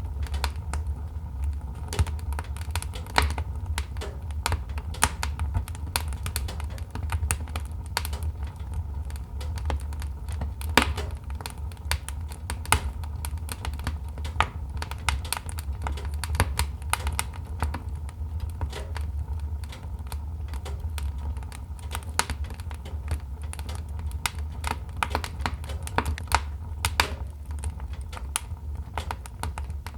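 Wood fire crackling: irregular sharp snaps and pops, a few louder ones standing out, over a low steady rumble.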